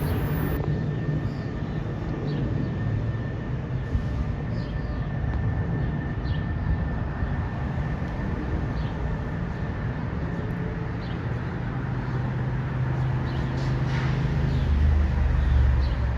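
A train running on the line: a steady rumble with a low hum, growing a little louder near the end.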